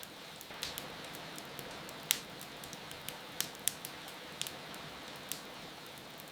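Fireplace fire crackling with scattered sharp pops, the loudest a little after two seconds in, over a steady hiss of rain.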